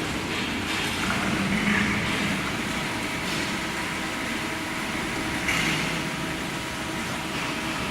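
Metal-cutting band saw machine running steadily, a constant mechanical noise with a faint steady hum.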